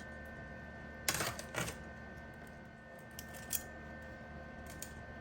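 A few light clicks and taps: two sharp ones close together about a second in, then a couple of fainter ones later, over a steady faint background hum.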